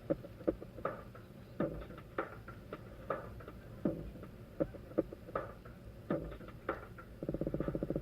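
Water dripping onto a hard surface in irregular sharp taps, about two a second. Near the end a short, fast rattle.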